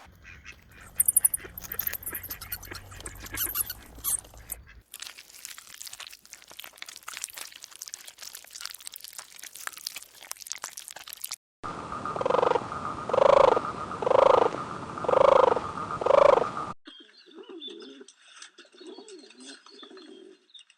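Several short recordings of birds spliced one after another, each cutting in and out abruptly. The loudest is a run of five evenly spaced calls about a second apart, past the middle.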